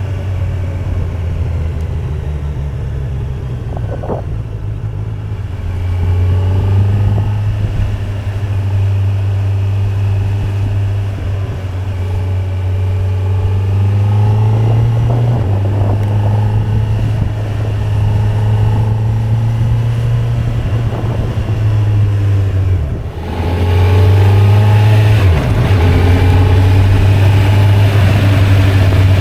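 2025 Kawasaki Z900's inline-four engine running under way, its note rising and falling again and again as it is ridden through the gears. Near the end it dips briefly as the throttle closes, then pulls louder.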